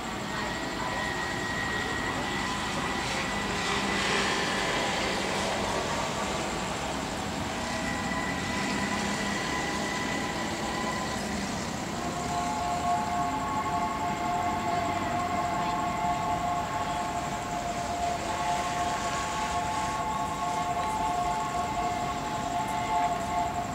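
Railway station ambience with a steam locomotive approaching in the distance, under held high warning tones: one tone in the first half, then several pitches sounding together from about halfway.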